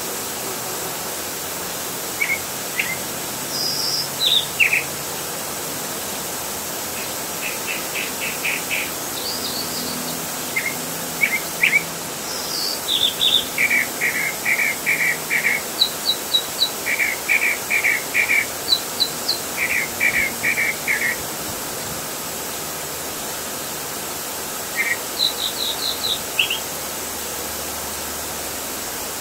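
Small songbirds chirping in quick series of short notes, several a second, mixed with higher calls and short falling notes, over a steady outdoor background hiss. The chirping pauses for a few seconds near the end, then a last high series comes.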